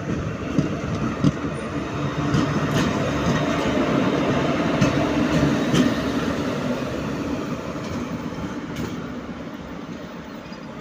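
Electric-hauled Indian Railways passenger train passing close by: a dense rumble of wheels on rail with a few sharp clacks over the rail joints. It grows louder to about midway, then fades away.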